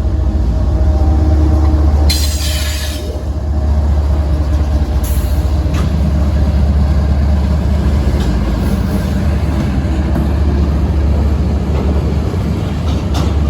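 A train rolling past close by: a loud, steady, deep rumble of wheels on rail, with a brief high-pitched screech or hiss about two seconds in.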